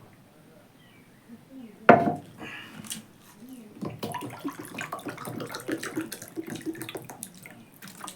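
Eating and table sounds: one sharp knock about two seconds in, then a few seconds of wet clicking and clatter.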